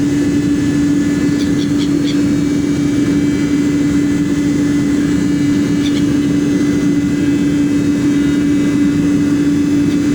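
Boat engine running steadily, a constant low hum with a strong single tone. A few faint short gull calls come through about a second and a half in and again about six seconds in.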